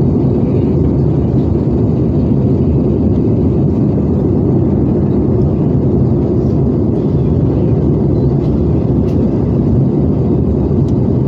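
Steady cabin noise inside an Airbus A320 airliner on its descent to land: the engines and the air rushing past the fuselage make a constant deep rumble.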